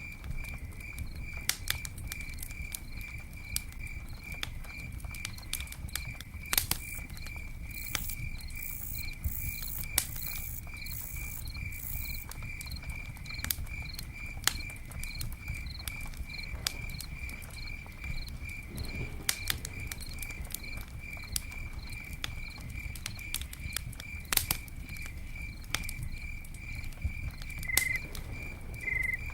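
Campfire crackling with scattered sharp pops over a low rumble, while a cricket chirps steadily in an even, rapid rhythm.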